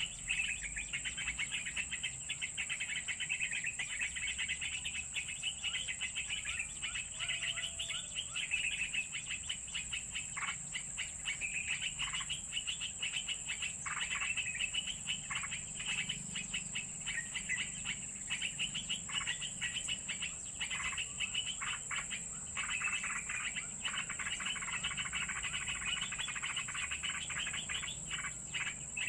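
Small birds chirping continuously in quick, short calls over a steady high-pitched insect buzz.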